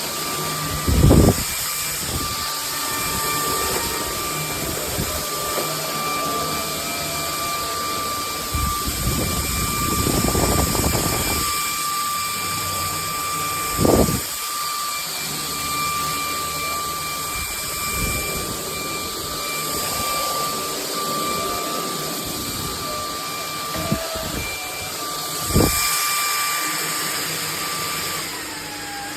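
Bulelink cordless stick vacuum running, its motor giving a steady high whine over a rushing hiss, with a few sharp knocks; the whine falls in pitch near the end.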